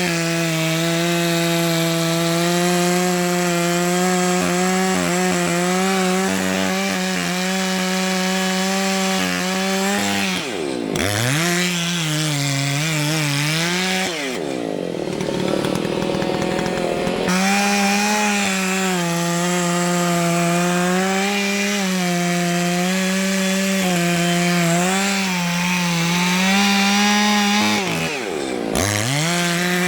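Two-stroke chainsaw running at full throttle while cutting wood. The revs dip sharply and come back up about eleven seconds in and again near the end, and drop to a lower, rougher note for about three seconds in the middle.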